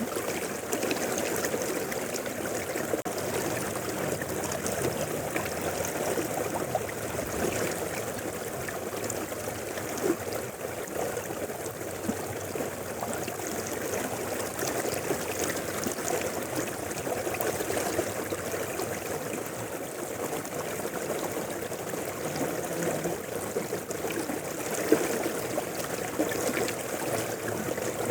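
Mountain river flowing steadily, an even rush of water with no breaks.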